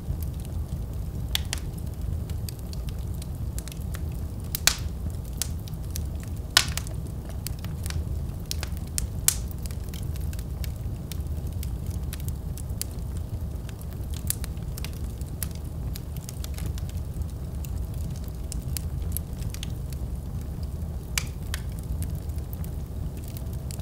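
A wood fire burning in a fireplace: a steady low rumble of flame with irregular sharp crackles and pops, a few of them louder, about 4 to 9 seconds in and again near the end.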